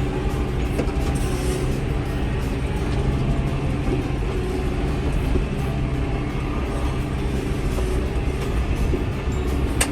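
Tractor engine running steadily under load, with the disc mower cutting hay.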